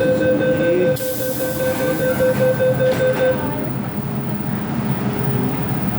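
MTR M-Train door-closing warning tone, sounding steadily and then beeping for about three and a half seconds. A sharp hiss of air cuts in about a second in and stops about two seconds later. After that, the low rumble of the train carries on as the doors shut for departure.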